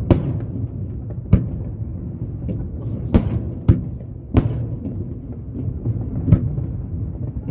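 Aerial firework shells bursting: a series of sharp booms, about six loud ones at irregular intervals with a few fainter ones between, over a steady low rumble.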